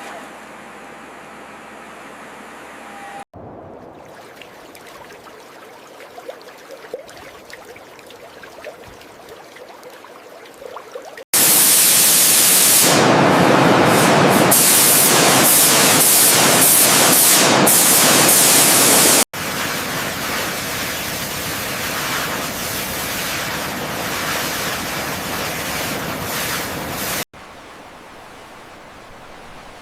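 Steady rushing noise in several abruptly cut segments: a faint hum at first, then a very loud rush for about eight seconds in the middle, then a softer rush.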